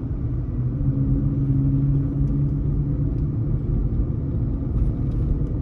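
Engine and road noise of a 2010 Chevrolet Equinox heard from inside the cabin while driving, a steady low drone that grows stronger about a second in and eases off past the middle. The owner offers the moment to hear the six-speed automatic shifting, which he calls perfect.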